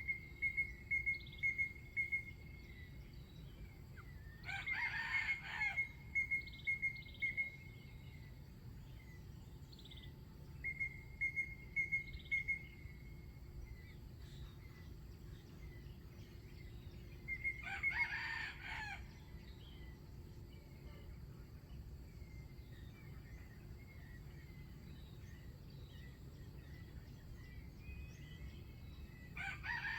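A wild chicken rooster crows three times, each crow short, about a second and a half. Between the crows, another bird gives runs of quick, evenly repeated high piping notes, each run lasting a couple of seconds.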